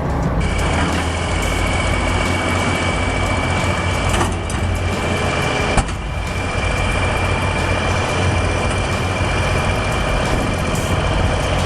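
Heavy diesel machinery engine running steadily, with a low hum and a high whine held throughout, and a brief click about six seconds in.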